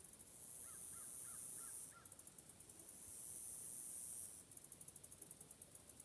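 Crows cawing five times in a quick series, faint, a little after the start. Beneath them runs a high, shrill buzz that switches every two seconds or so between a steady drone and rapid pulsing.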